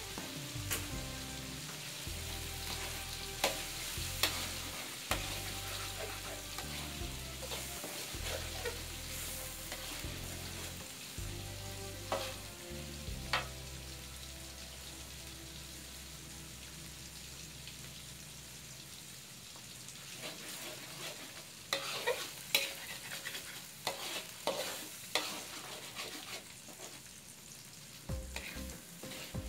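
Eggs and meat frying with a steady sizzle in a wok, while a spatula is stirred through them, scraping and clicking against the wok, most often in the second half.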